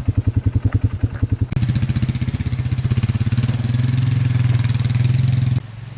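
Chainsaw engine running with a lumpy pulsing, then revved up sharply about a second and a half in, held at high speed, and dropping back abruptly near the end.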